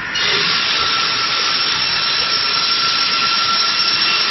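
Electric log sawmill running steadily: a loud, even hiss with a steady high whine through it, stepping up in level just after the start.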